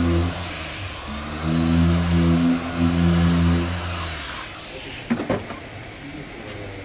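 Electric power tool's motor running steadily, dipping briefly about half a second in, then switched off about four seconds in, followed by a few sharp knocks.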